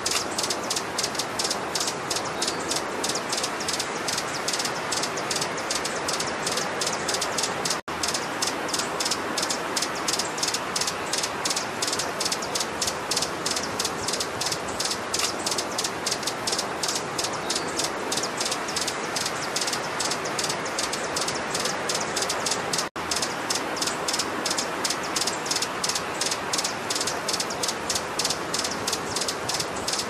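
Small bird's calls: a rapid, unbroken run of high, dry ticking chips, several a second, over a steady hiss. The run cuts out for an instant twice, about a quarter of the way in and again about three quarters in, as at the seam of a looped recording.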